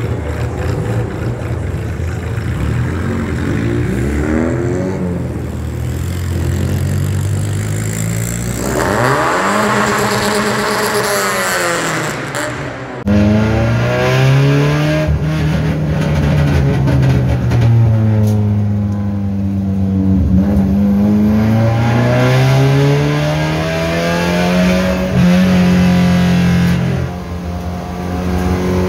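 Car engines revving and passing on a race track. Then, from inside the cabin, a Kadett GSI 2.0 naturally aspirated four-cylinder with a 4-into-1 header and no air filter runs under hard acceleration. Its note rises, eases off, then climbs again and holds high near the end.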